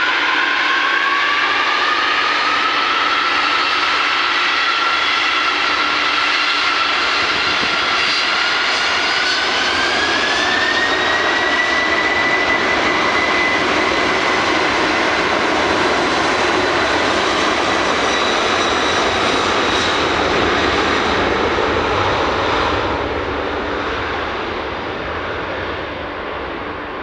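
Boeing 747-400F jet engines at takeoff power: a loud roar with a whine that climbs in pitch over the first dozen seconds and then holds steady, the whole sound fading over the last few seconds.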